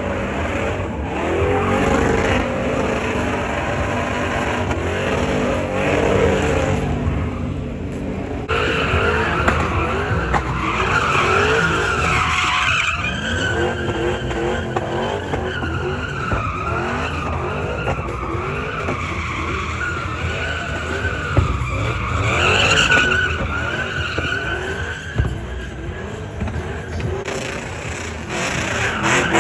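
Car doing a burnout: the engine revs, its pitch rising and falling, and from about eight seconds in a wavering tyre squeal takes over on top of the running engine.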